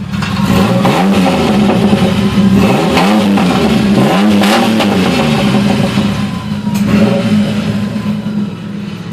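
Ford Ranger engine running through a straight-piped exhaust with the catalytic converters removed: idling, revved up and back down three times in the first half, then settling back to a steady idle.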